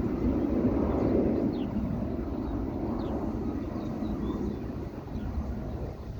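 Low, steady outdoor rumble, loudest about a second in and then slowly easing, with a few faint short high chirps over it.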